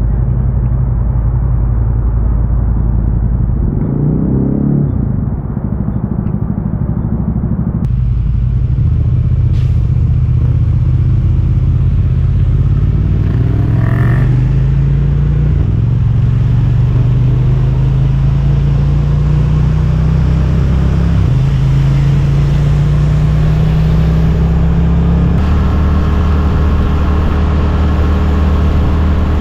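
Suzuki GSX-8S 776 cc parallel-twin engine running under way, its low note climbing slowly with speed and dropping in pitch twice near the end, as at upshifts. A brief rising sweep comes about four seconds in.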